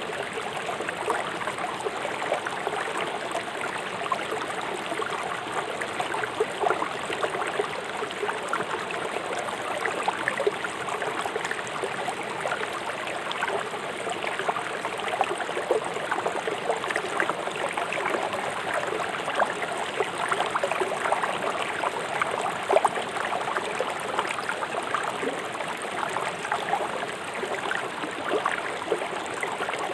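Fast-flowing river water rushing over rocks: a steady rush with many small splashes throughout.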